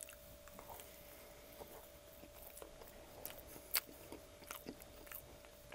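Quiet chewing of a mouthful of sauce-dipped breaded chicken: soft, wet mouth clicks scattered throughout, with one sharper click a little before four seconds in. A faint steady hum runs underneath.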